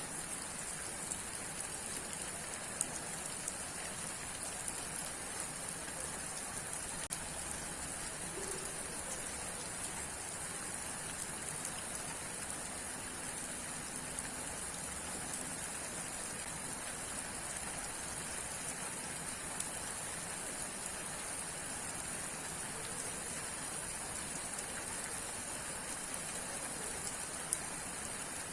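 Steady rain falling, with scattered individual drops ticking now and then.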